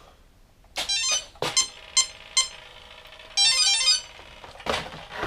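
Electronic beeps and chimes from an RC radio transmitter connecting to the glider: a short trill about a second in, a run of short beeps, then a warbling chime, with a single knock near the end.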